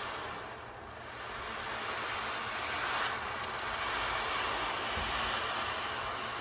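Beads rolling inside a wave board, a continuous hiss that dips briefly near the start, then swells and holds steady.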